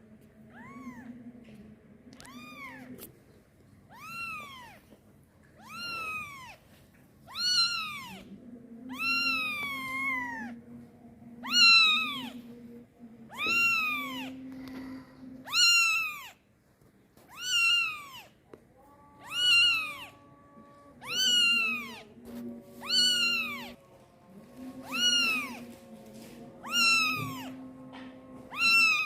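Kitten meowing loudly over and over, about one cry every two seconds, each cry rising then falling in pitch: a kitten crying for its mother.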